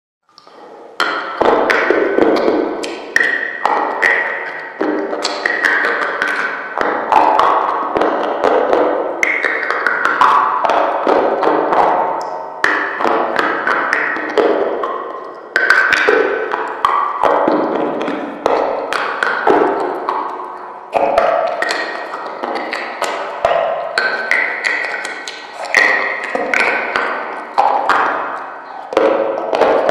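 Close-miked biting and crunching of a brittle white chalk-like block: a sharp crack every second or two, each followed by crumbling chews. Music plays along with it.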